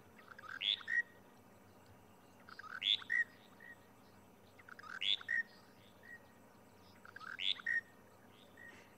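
Monotonous lark singing its short, repeated phrase over and over, about once every two seconds, four times.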